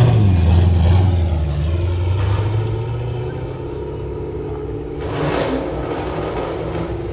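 Cars driving past: a deep engine note is loudest at the start and fades away over the first few seconds, then another car swells past about five seconds in.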